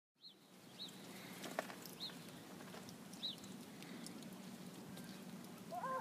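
A small bird chirping outdoors: four short high chirps spread over a few seconds, over a faint steady low hum. Near the end a short cry rises and falls.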